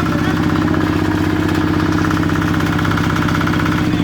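Small single-cylinder gasoline engine running steadily at idle, with rapid, even firing pulses.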